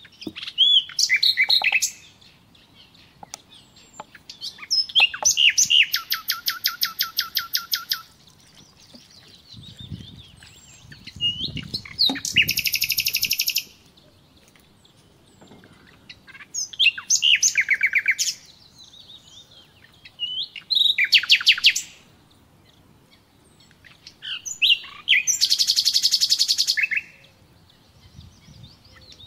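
A songbird singing loud phrases of rapid trills, each about two seconds long, repeated every few seconds.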